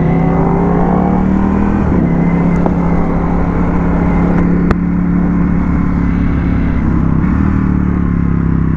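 Ducati Panigale V4S's V4 engine running under way, heard from on the bike: revs climb for about two seconds, dip about two seconds in, then hold steady. A single sharp click a little past halfway.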